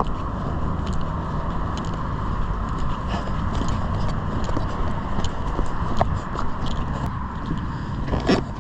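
Steady low rumble of nearby road traffic, with scattered light clicks and scuffs of footsteps and handling throughout, and a sharper knock near the end.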